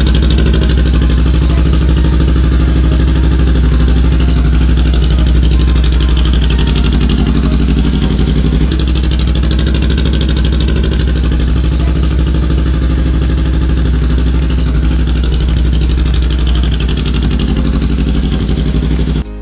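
Honda Rebel 500's parallel-twin engine running steadily through newly fitted CB500X exhaust headers and an aftermarket muffler, loud and even, cutting off suddenly near the end.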